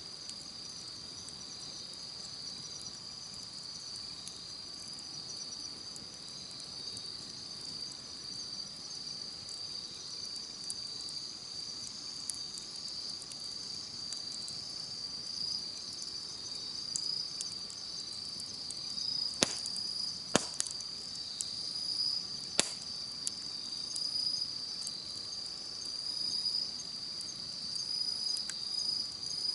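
Insects chirping in a steady high-pitched chorus, with a wood campfire crackling underneath and three sharp loud pops about two-thirds of the way through.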